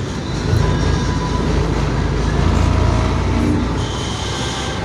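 Heavy truck rumbling past, a deep engine and road noise that swells to its loudest about halfway through and then eases.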